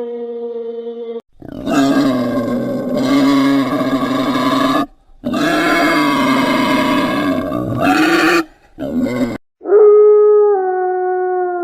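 An animal's loud calls in two long stretches and a short one, followed by a single drawn-out tone that slowly falls in pitch.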